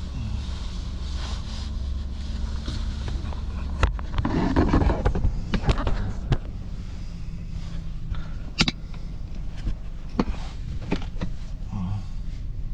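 Car engine idling, then a sharp click and a run of rustling, clicks and knocks from about four seconds in, as of a car door being opened and someone climbing out.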